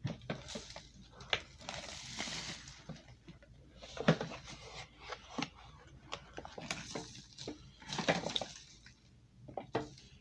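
Plastic clicks, knocks and rustling from a vacuum cleaner's dust bin being handled and unlatched, with two longer stretches of rustling noise.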